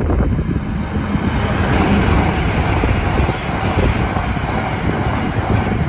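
LNER Azuma (Hitachi) high-speed train passing at speed: a rushing noise of wheels on rail and air that builds as the front end comes by, loudest about two seconds in, and carries on steadily while the carriages go past, easing near the end.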